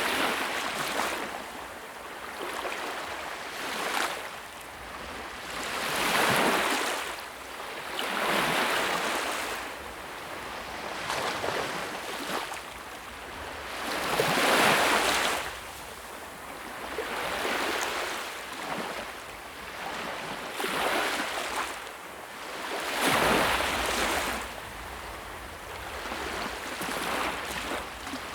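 Sea waves breaking and washing on a shore, a hissing surge that swells and ebbs every two to three seconds, with bigger breakers now and then.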